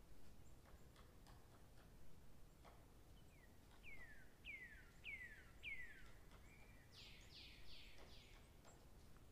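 Faint bird calls: a run of five quick downward-sliding whistles a few seconds in, then a rapid burst of sweeping chirps near the end. Scattered faint ticks and low background noise sit underneath.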